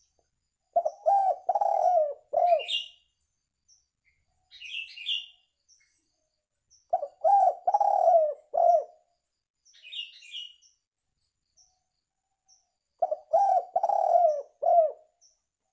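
Spotted dove (tekukur) cooing: three phrases about six seconds apart, each a few coos with one drawn-out note in the middle. Fainter high chirps from another bird come between the phrases.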